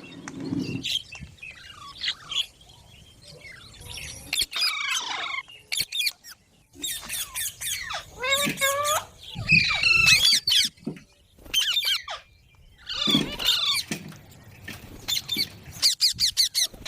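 Pet green parrot, a rose-ringed (Indian ringneck) parakeet, giving a series of squawks and screeching calls. The calls come in bursts with short pauses between them, and their pitch sweeps up and down.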